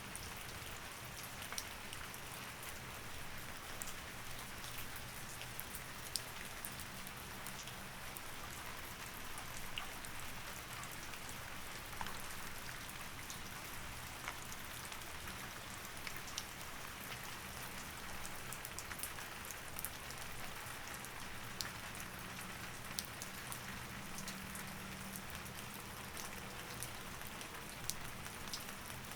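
Steady rain falling, with many small drop ticks pattering on a surface over an even hiss.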